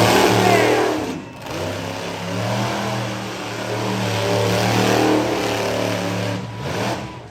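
Monster truck engine running at high revs, loud and sustained, easing off briefly about a second in and falling away near the end.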